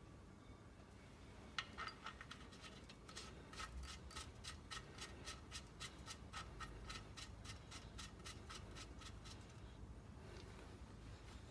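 Ratchet wrench clicking in an even run, about four clicks a second, starting about a second and a half in, pausing briefly and starting again near the end.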